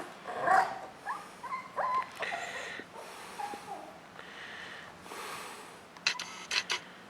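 Jack Russell terrier puppy at play, making short high-pitched whines that slide up and down between snuffling, noisy breaths. A quick run of sharp clicks comes near the end.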